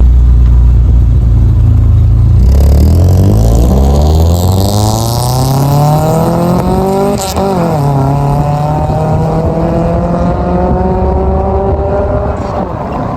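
Car engine and exhaust accelerating: a low rumble, then the engine note climbs steadily for several seconds, drops sharply at a gear change about halfway through, and climbs again more slowly.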